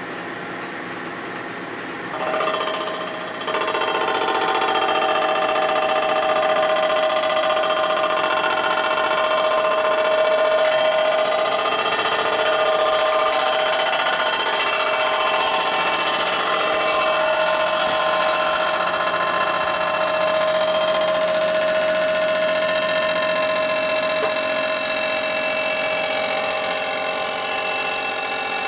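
A machine tool's cutter taking a 3-thousandths facing cut across the chromed gasket surface of a Harley-Davidson primary cover. The machine runs quietly at first; about two seconds in the cut begins, and a steady whine with several held tones lasts to the end.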